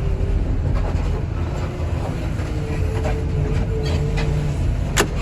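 Heavy diesel machinery running with a steady low rumble and some rattling, with one sharp click near the end.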